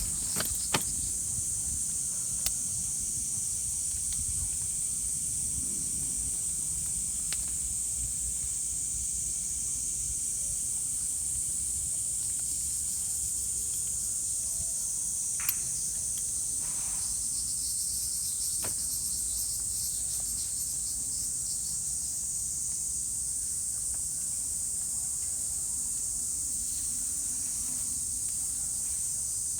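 Insects buzzing in a steady, high-pitched chorus, with a few sharp clicks and knocks, most near the start.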